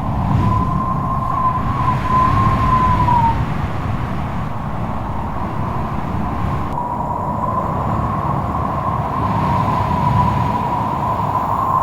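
Strong wind with a low rumble and a high whistling howl that wavers around one pitch. The howl lasts about three seconds at the start and rises again from about seven seconds in.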